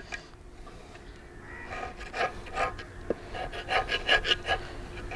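Repeated scraping strokes, about two to three a second, of a tool scraping thick sludge-like carbon deposits out of a diesel engine's inlet manifold; the strokes start a little under two seconds in and grow louder toward the end.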